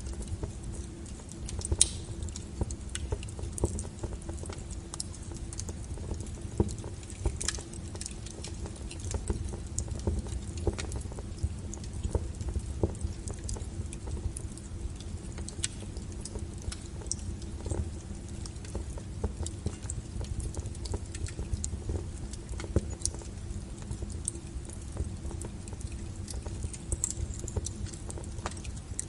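Wood fire burning with frequent, irregular sharp crackles and pops over a low steady rumble.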